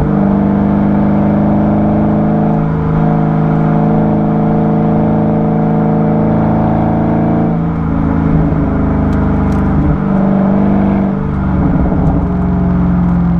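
Dodge Charger 392's 6.4-litre HEMI V8, heard through a microphone at the exhaust outlet, running at steady moderate revs. The level dips briefly twice in the second half as the throttle eases off.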